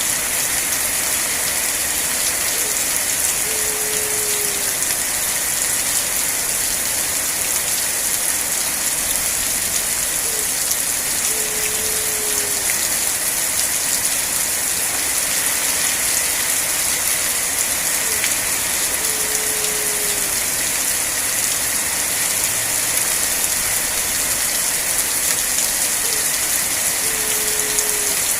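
Steady rain, an even hiss with no pauses. A short, low, slightly falling tone recurs about every eight seconds, four times in all.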